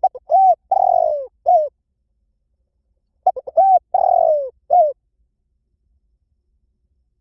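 Spotted dove cooing: two song phrases about three seconds apart, each a few short coos, a longer coo falling in pitch, and a short closing coo.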